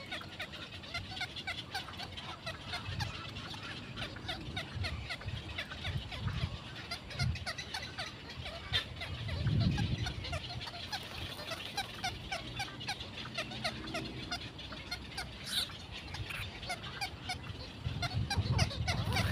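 A continuous chatter of many short, rapid bird calls, with low rumbles about halfway through and again near the end.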